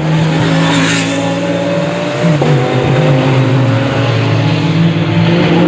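Race car engines running at speed, with a sudden shift in engine pitch about two and a half seconds in.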